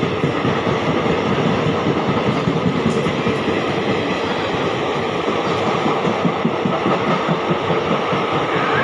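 Express passenger train's coaches rolling past, with a steady loud rumble of wheels on rail and a clatter over the rail joints.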